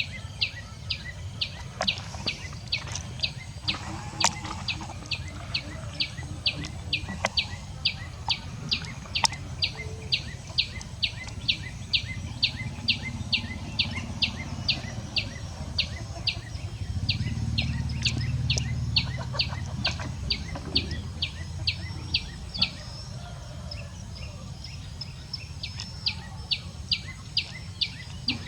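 A steady series of short high chirps from a small animal, about two a second, over a low rumble that swells for a few seconds around the middle.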